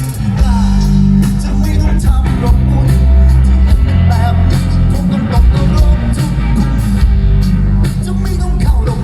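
Loud live rock-pop band music, with heavy bass, steady drums and a singer's voice.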